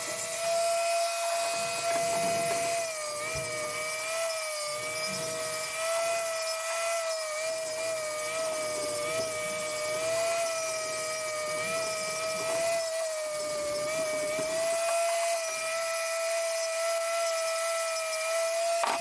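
A handheld electric power tool running with a steady high whine that wavers a little as it is worked. Right at the end it winds down, the pitch falling quickly.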